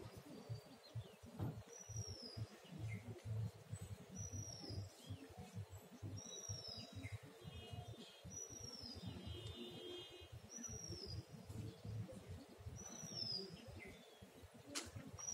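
A bird calling over and over, each call a short high note that falls in pitch, repeated every second or two over a low rumble of background noise.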